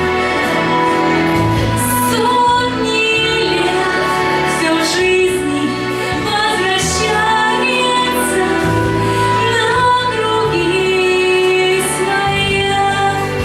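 A woman singing a slow, tender song over an instrumental backing track, holding long notes over a bass line that moves every second or two.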